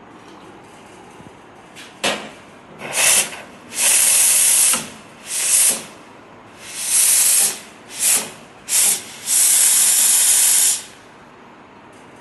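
Espresso machine steam wand hissing in about eight bursts of varying length, a few short spurts and some held for a second or more, as steam is let on and off.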